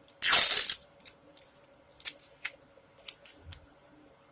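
Masking tape pulled off the roll in one loud rip, then a few short crackles as the tape is handled and pressed down.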